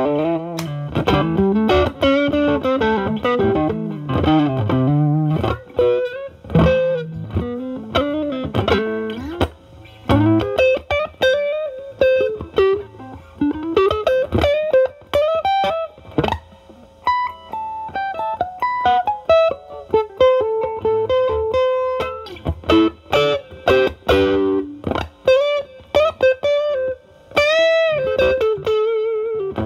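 Electric guitar, a Stratocaster with single-coil pickups through a Ceriatone Centura (Klon Centaur clone) overdrive with its gain at zero into a Marshall Valvestate's drive channel, with the guitar's volume rolled back to clean the tone up. It plays improvised single-note lead lines with string bends and quick runs, ending on a note with wide vibrato near the end.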